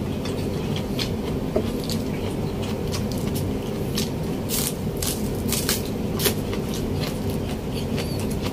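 Crisp green vegetable stalks crunching as they are broken and chewed: a run of short, sharp crackles over a steady low background hum.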